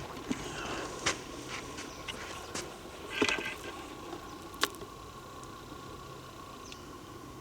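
Scattered sharp clicks and knocks from a handheld camera carried on a walk, handling noise that the uploader takes for something touching the camera. The loudest comes a little after three seconds in, with a faint steady hum underneath.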